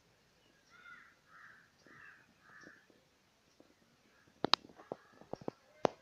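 A bird calls four times in a row, about half a second apart. From about four and a half seconds in comes a series of louder sharp clicks and knocks.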